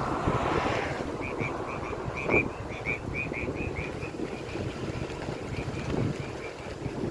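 Car driving along a road: a steady low rumble of road and wind noise. About a second in, a quick run of short high chirps, about five a second, lasts a few seconds, with a single bump partway through.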